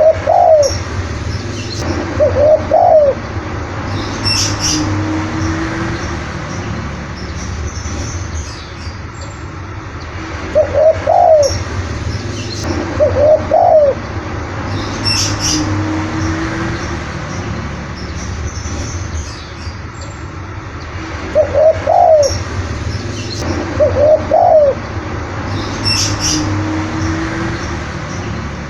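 Spotted dove (tekukur) cooing, its phrase heard three times about ten seconds apart. Each phrase has two loud rising-and-falling coos followed by a lower, drawn-out note. Short high chirps come between the phrases, over a steady low hum.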